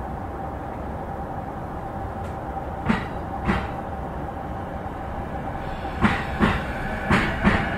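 Electric commuter train (JR East E233-0 series) heard from inside the car as it pulls away, with a steady running noise and a steady whine. Its wheels knock over rail joints in pairs, about a second in, again after six seconds and near the end, each pair closer together as the train gathers speed.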